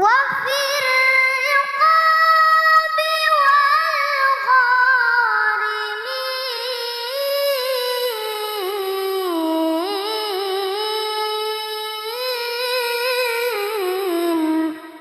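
A child's high voice reciting the Quran in a melodic, ornamented style, drawing out one long phrase on a single breath. It slides up at the start, wavers through decorated notes and gradually descends to a lower, falling close near the end.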